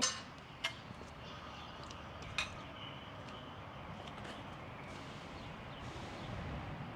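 Light clicks and taps of hand work on motorcycle parts: three sharp clicks in the first two and a half seconds, then a few faint ticks over quiet background noise.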